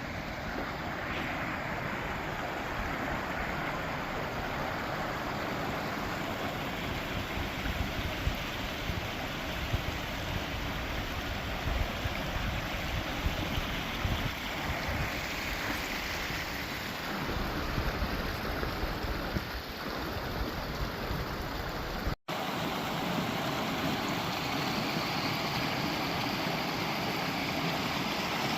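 Rushing water of a river and waterfall, a steady hiss, with wind buffeting the microphone in low gusts. The sound cuts out for an instant near the end and comes back steadier.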